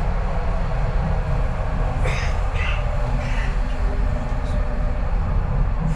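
Docklands Light Railway electric train heard from inside the car while moving: a steady low rumble of wheels on the track with a faint steady motor whine.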